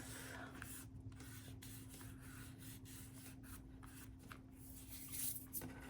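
Faint rustling and rubbing of paper and cardstock pieces handled by hand, with scattered light ticks and a louder rustle about five seconds in. A steady low hum runs underneath.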